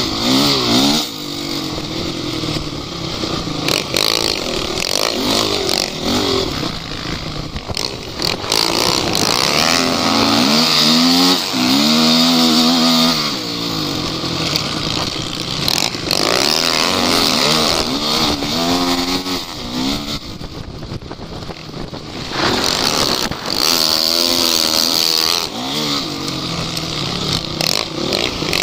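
Off-road vehicle engines revving hard and easing off again and again, the pitch climbing and falling several times over a constant engine noise.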